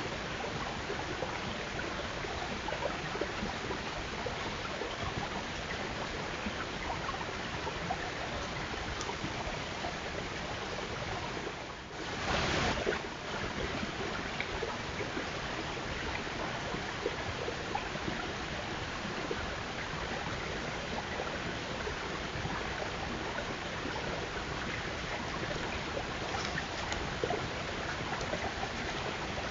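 Steady rushing, hiss-like outdoor noise, like running water or wind, with a brief louder burst about twelve seconds in and a few faint ticks.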